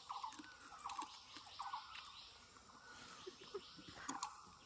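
Faint, repeated short pulsed bird calls, about one every second or a little faster, with light clicks in between.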